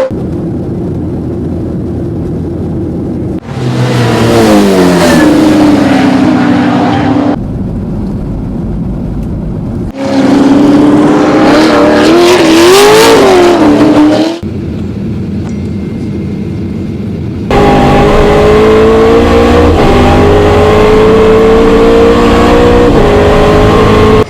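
V8 race car engines at speed, in several sections cut together. The pitch climbs and drops at the gear changes, and some stretches are louder and closer than others.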